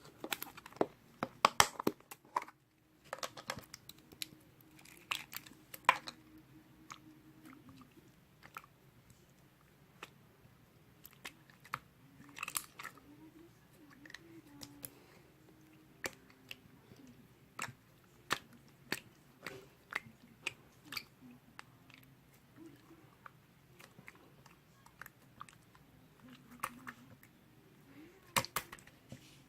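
Slime being squeezed and stretched by hand, giving irregular wet clicks and pops. They come thick and fast for the first six seconds, then more sparsely.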